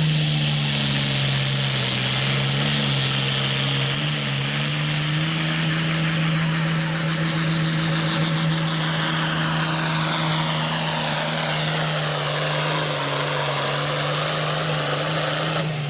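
Hot stock pulling tractor's turbocharged diesel engine running flat out through a pull, a steady loud drone with a high turbo whine that slides down in pitch and turns back up near the end; the sound cuts off suddenly at the end.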